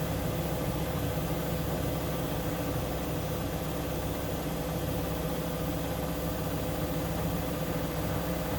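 Siemens Siwamat IQ 716 front-loading washing machine running, with a steady motor hum that holds one pitch.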